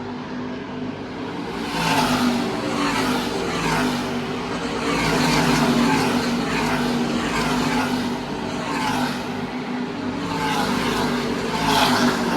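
NASCAR Camping World Truck Series race trucks' V8 engines at speed, passing one after another in a string of rising and falling swells over a steady engine drone.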